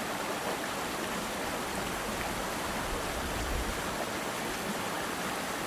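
Steady rushing of a 75-foot waterfall heard from a distance, running full after recent rain.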